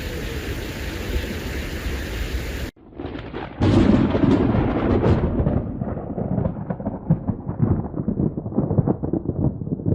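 Thunder: a clap about three and a half seconds in that rolls and crackles as it slowly dies away. Before it, a steady rain hiss cuts off abruptly.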